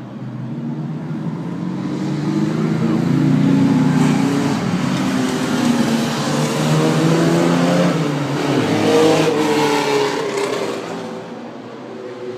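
A vintage car's engine running as it drives up and past, growing louder over the first few seconds, its note dropping about eight and a half seconds in, then fading away near the end.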